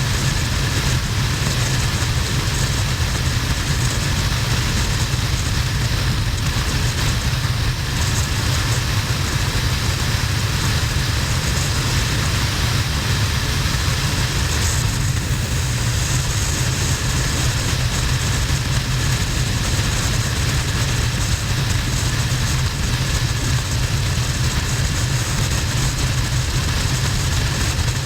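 Harley-Davidson XL1200N's air-cooled 1200 cc V-twin running steadily at motorway cruise, with a heavy rush of wind over the camera microphone.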